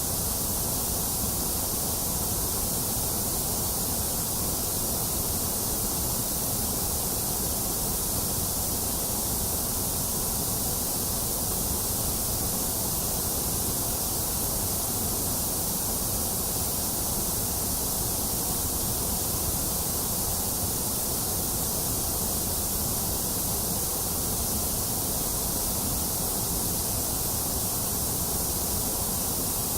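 Steady electronic white noise: an even, unchanging hiss with no breaks or events.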